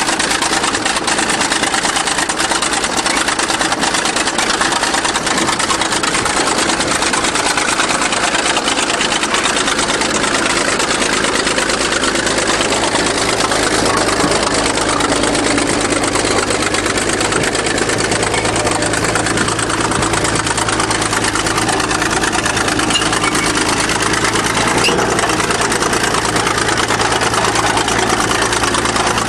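A 20-ton bulldozer's diesel engine running steadily as the dozer backs up to drive over a car again; its low hum grows stronger about ten seconds in.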